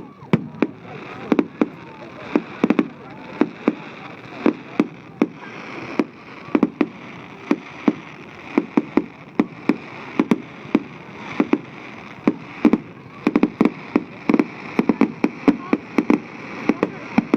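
Fireworks display: a rapid, irregular string of bangs from bursting shells, about three a second.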